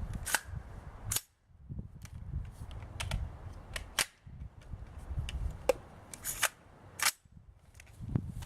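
300 AAC Blackout AR-15 short-barreled rifle firing a string of about half a dozen shots, unevenly spaced.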